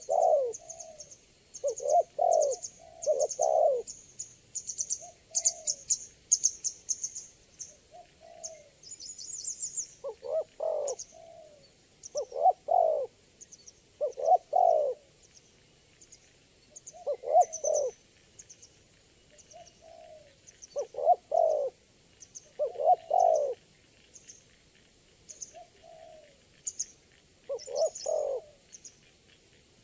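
Spotted dove (tekukur) cooing: repeated two- and three-note phrases about every two seconds, with softer single coos between. Over it runs rapid high-pitched chirping of small birds, densest in the first ten seconds and thinner later.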